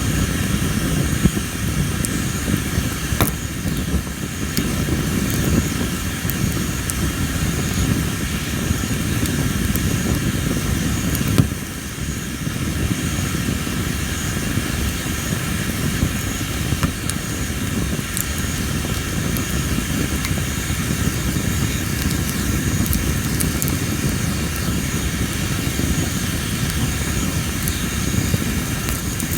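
Tree-of-heaven (Ailanthus) wood burning in a campfire: a low steady rumble of flames with scattered crackles and a few sharp pops, the loudest about eleven seconds in. The loud popping is typical of wood with a high moisture content. Insects chirp steadily in the background.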